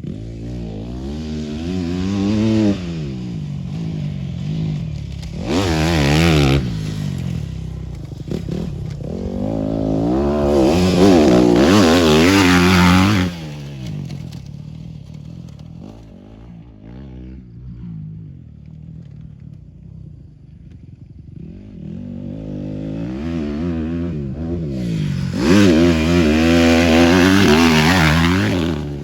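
Motorcycle engines revving up and easing off as bikes ride a dirt flat track. The bikes pass loudly three times: briefly at about six seconds, for longer around eleven to thirteen seconds, and again near the end.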